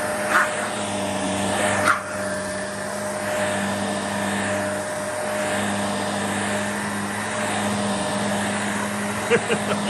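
Shark NV351 Navigator Lift-Away upright vacuum cleaner running steadily with a constant motor hum, broken by a few brief clicks, one about two seconds in and a cluster near the end.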